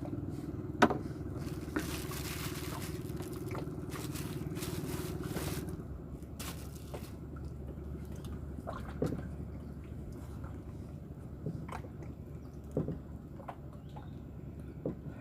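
A motor runs with a steady hum and stops about six seconds in, with scattered sharp clicks and knocks throughout; the loudest knock comes about a second in.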